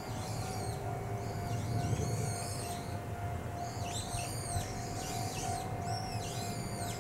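Small birds chirping in a rapid series of short, high calls, over a low steady rumble and a faint steady tone.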